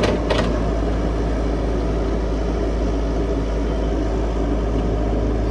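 Diesel engine of a Caterpillar 312 excavator running steadily under work, with a couple of short knocks right at the start.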